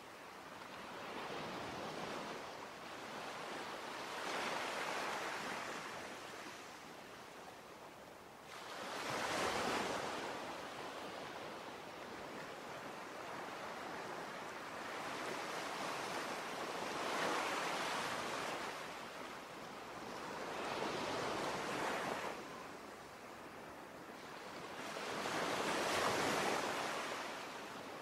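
Sea waves washing in, rising and falling back in slow surges every few seconds, with a steady hiss of surf between them.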